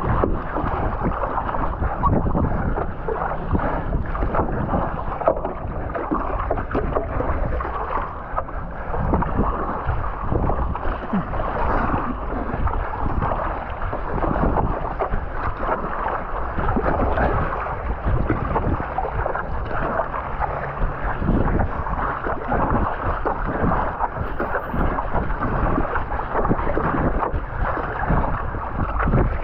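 Strong wind buffeting the microphone over choppy seawater splashing around a stand-up paddleboard, a continuous rough rush with no break.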